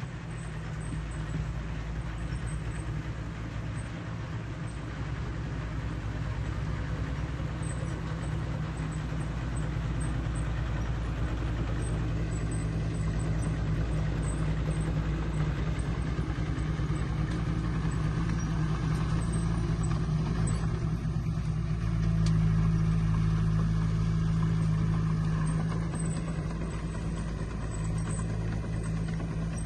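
Diesel engine of heavy earthmoving machinery running steadily under load, swelling louder for a few seconds about two-thirds of the way through.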